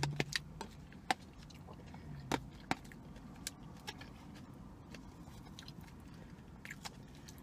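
Close-up chewing of a forkful of spinach salad: wet mouth clicks and crunches, thickest in the first three seconds, then sparser, with two short closed-mouth hums early on over a faint steady low background noise.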